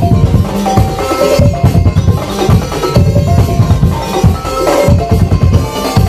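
Madurese daul (tong-tong) percussion ensemble playing loudly: a dense, driving rhythm of low drums, with short melody notes on tuned percussion over it.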